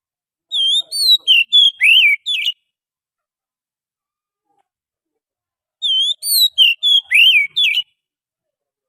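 Oriental magpie-robin song: a loud phrase of sweet, sliding whistled notes lasting about two seconds, then the same phrase again after a pause of about three seconds.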